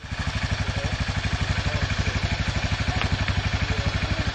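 Quad bike engine idling with a steady, even chug.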